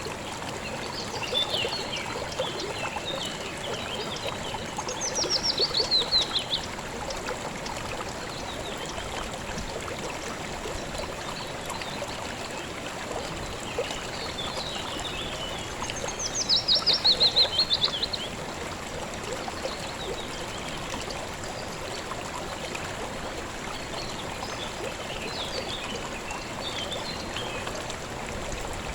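A small river or stream flowing steadily, with a songbird singing over it: a loud, rapid run of notes that falls in pitch, given twice, about five seconds and sixteen seconds in, and softer twittering between.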